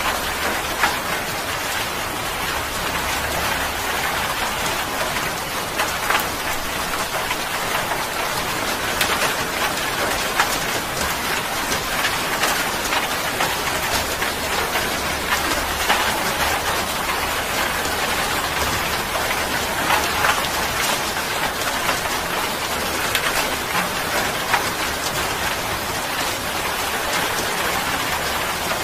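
Steady rain falling on a surface: a dense, even hiss with frequent sharp drop impacts scattered through it.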